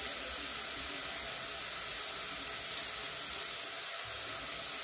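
Onions and tomatoes frying in a pot, giving a steady, even sizzle.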